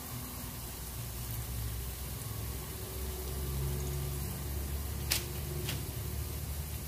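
Hash browns shallow-frying in oil, a steady soft sizzle, with two sharp clicks of a utensil against the pan about five seconds in.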